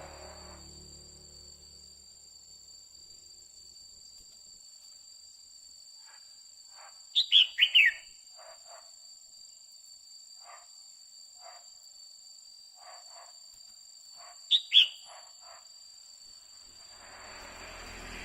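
Female red-whiskered bulbul calling: a quick run of four loud, falling notes about seven seconds in and a pair of the same notes about seven seconds later, with softer short chips in between, over a steady high-pitched whine.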